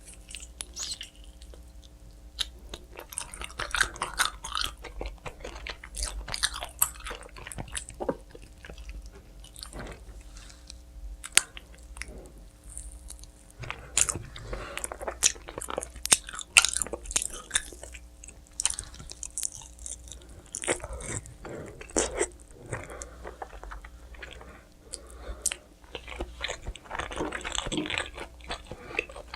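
Close-miked chewing and biting of pizza, with irregular crisp crunches and wet chewing.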